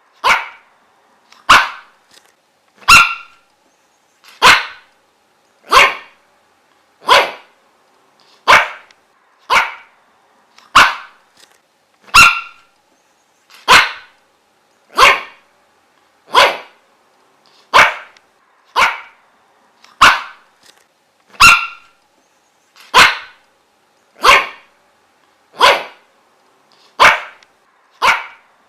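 A dog barking single sharp barks at a steady pace, roughly one bark every second and a quarter, with silence between them.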